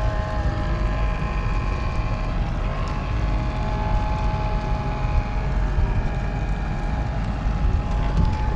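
Wind buffeting the microphone in a steady low rumble, with a thin steady whine running underneath.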